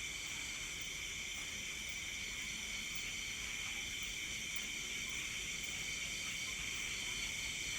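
Night insects, crickets among them, chirring steadily in several high-pitched bands at once, with no pauses.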